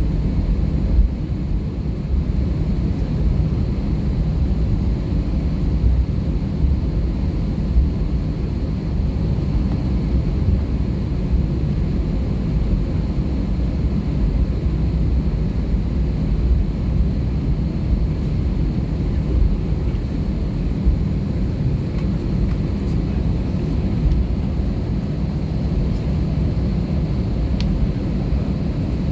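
Cabin noise of an Airbus A320-214 with its CFM56-5B engines running at power: a steady, heavy low rumble of engines and airflow, with a faint high steady whine above it.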